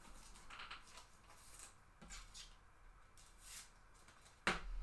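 Trading cards being handled and slid past one another, giving a few faint soft swishes, then a sharp tap about four and a half seconds in.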